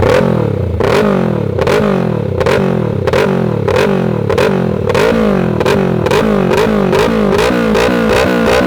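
Yamaha R3's parallel-twin engine, breathing through an aftermarket Dynamic exhaust, being revved in quick repeated throttle blips, about two to three a second, its pitch rising and dropping each time.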